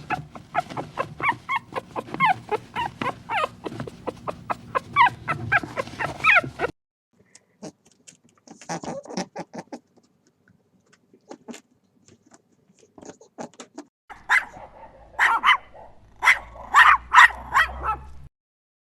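Dog yipping, whimpering and barking in short calls, with abrupt cuts between clips: a dense run of calls, a sparse quieter stretch, then a louder group of barks near the end.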